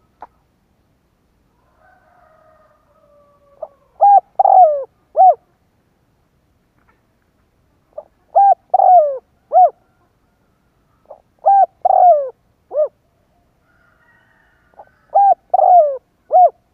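Spotted dove cooing: four phrases of three or four low notes each, coming about every three and a half seconds.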